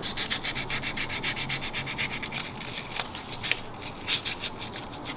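Rapid back-and-forth scrubbing of the starter's electrical contacts with an abrasive, several short scratchy strokes a second, turning irregular after a couple of seconds: cleaning the contacts so the new starter gets a good connection.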